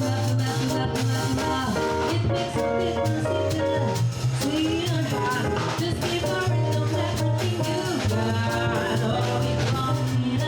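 Jazz quartet playing a Latin-flavoured tune, with drum kit and a steady bass line under guitar and melody.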